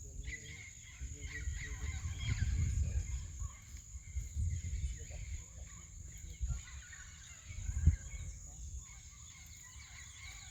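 Faint bird chirps and calls over a low rumbling noise, with one short knock about eight seconds in.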